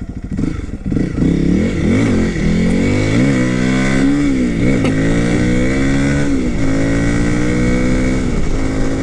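Honda CRF300L's single-cylinder four-stroke engine accelerating through the gears. The pitch climbs and drops at each shift, about three times, then settles to a steadier, lower note.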